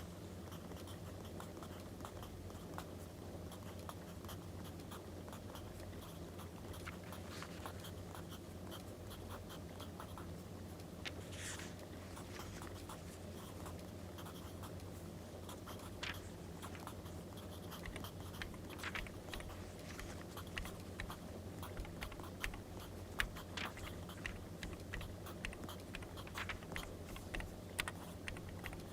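Pencil or pen scratching on paper, with small clicks and paper handling, over a crackling wood fire and a steady low hum.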